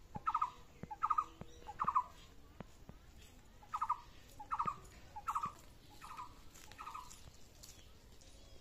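A bird calling in short, repeated calls: three in quick succession, a pause, then five more.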